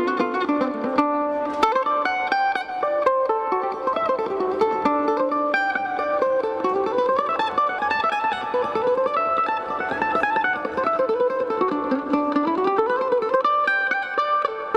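Mandolin solo played live: fast runs of picked notes that climb and fall in pitch.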